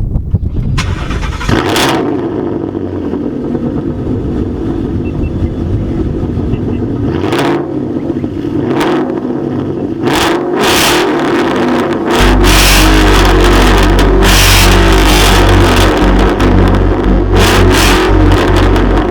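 Ford 5.0 Coyote V8 engine running steadily. About twelve seconds in it turns deeper and louder, and short noisy gusts hit the microphone.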